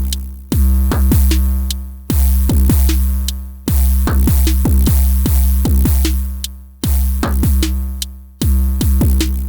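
Elektron Syntakt drum machine playing a looping drum pattern. A deep booming low hit is struck again about every second and a half and decays slowly, with quick punchy hits that drop in pitch and short ticks between the strikes.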